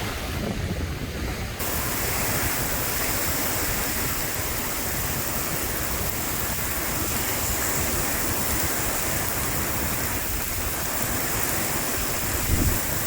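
Stormy sea surf breaking, with strong wind blowing on the microphone; a dense, steady rush of noise that gets brighter and hissier about a second and a half in.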